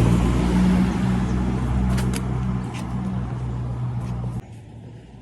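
A motor-driven cleaning machine running steadily with a low hum and a rushing noise over it, then cutting off abruptly about four seconds in.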